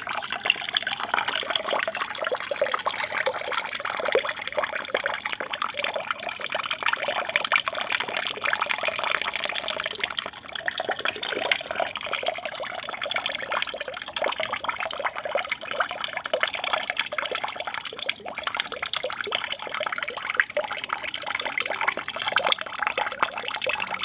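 Water from a small aquarium waterfall splashing and trickling steadily into the tank, a continuous babbling patter.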